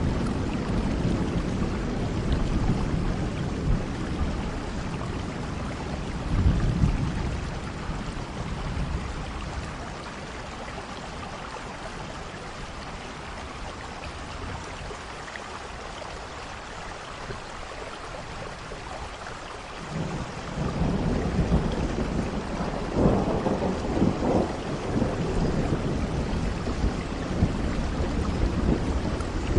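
Steady rain with rolling thunder. The low rumble dies away over the first several seconds, leaving rain alone, then thunder rolls back in suddenly about two-thirds of the way through, with louder peaks a few seconds later.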